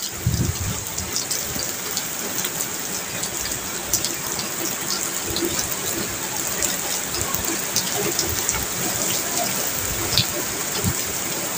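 Steady rain falling on a wet railway platform, with many individual drops ticking on the concrete and puddles.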